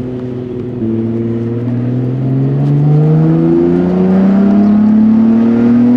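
Nissan Skyline GT-R R32's RB26DETT twin-turbo straight-six, breathing through a full Tomei Expreme Ti titanium exhaust from the headers back, pulling hard under acceleration. Its note climbs steadily in pitch for about five seconds, heard from inside the car.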